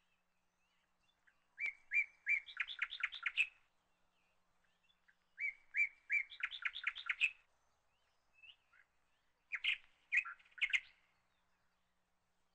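A songbird singing three short phrases a few seconds apart. Each phrase opens with a few separate chirps and runs into a quick series of notes.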